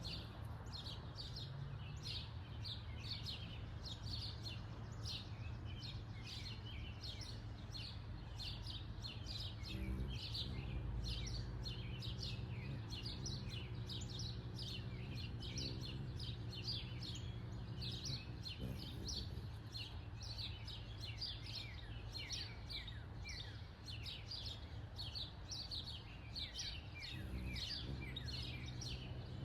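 Small backyard birds chirping continuously, many short high chirps a second, over a low steady hum that grows a little stronger from about a third of the way in and again near the end.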